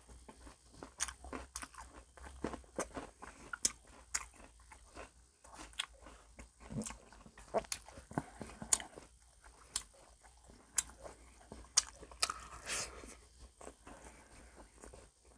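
Close-up mouth sounds of someone biting into, crunching and chewing crispy fried calamari, an irregular run of sharp crunches with a louder cluster near the end.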